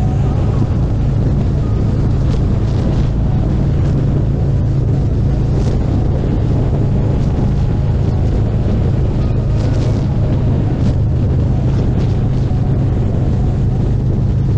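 Harley-Davidson Street Glide Special's V-twin engine running steadily, with wind rumbling on the microphone.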